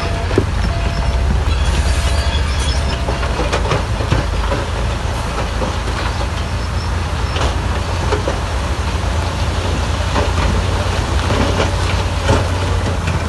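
Crawler bulldozer's diesel engine running steadily under work, with frequent clanks and knocks from its steel tracks and the stones it moves. A reversing alarm beeps repeatedly for the first few seconds.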